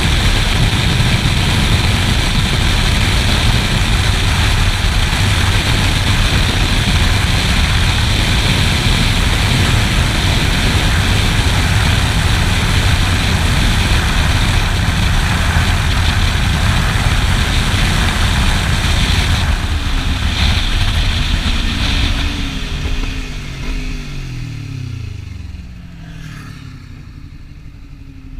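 Sport motorcycle riding at speed: a steady engine rumble under heavy wind rush. About two-thirds of the way through, the engine note falls in pitch and the sound gets quieter as the bike slows down.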